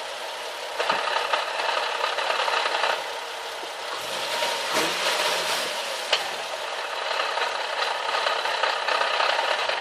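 Nissan 370Z's gearbox rattling at idle: a dense, continuous metallic chatter over the idling engine, easing a little for a second or so in the middle. The rattle has become much worse since a JWT flywheel and clutch kit was fitted.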